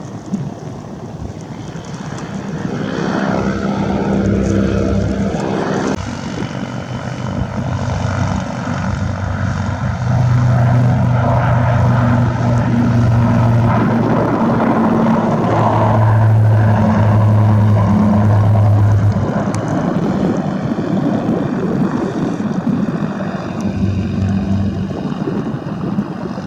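Propeller airplane engine droning as the aircraft passes, growing louder through the middle and easing off toward the end.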